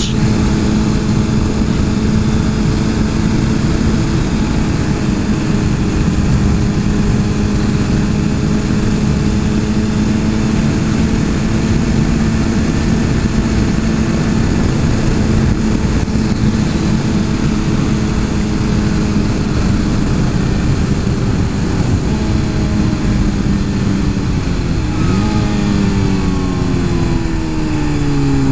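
Suzuki GSX-R 1000's inline-four engine running at steady high revs under heavy wind noise. Near the end the revs flick up briefly, then fall away as the bike slows.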